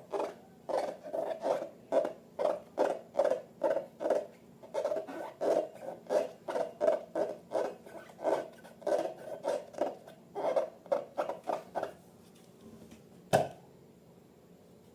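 Slime being squished and pressed over and over, about two to three squishes a second, stopping about twelve seconds in, followed by one sharp click.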